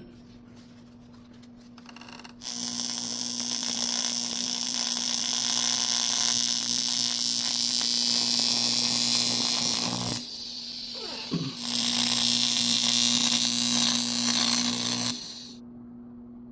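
AC TIG welding arc on aluminum, welding an aluminum boss onto a turbo pipe: a steady hiss with a hum, one bead of about seven seconds, a short break, then a second bead of about three seconds that cuts off sharply.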